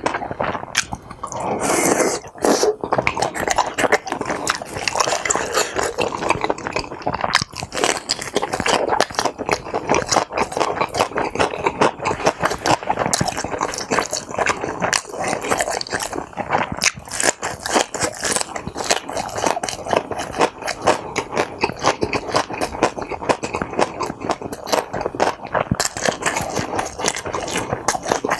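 Close-miked chewing and mouth sounds of someone eating tteokbokki (chewy rice cakes in sauce) and kimbap. The sound is a dense, continuous run of small wet clicks and smacks.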